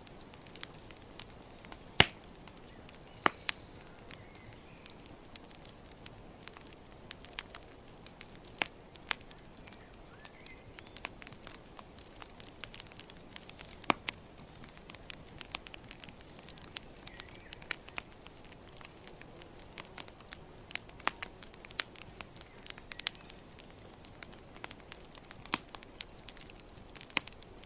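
Campfire burning, with irregular sharp crackles and pops from the wood over a low steady hiss; the loudest pop comes about two seconds in.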